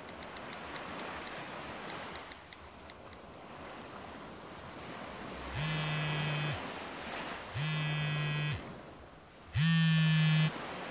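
Steady wash of surf-like noise, then three electronic buzzing beeps about a second long and two seconds apart, the last one loudest.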